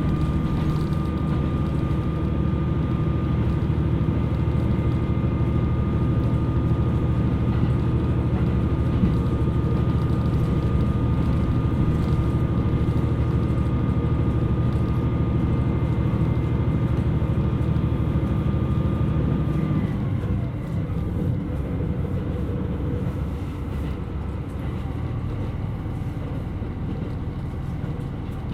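Inside a KiHa 127 series diesel railcar running along the line: its diesel engine pulls steadily with a held whine. About twenty seconds in the whine dips and stops and the engine note drops, the railcar easing off power and running on more quietly.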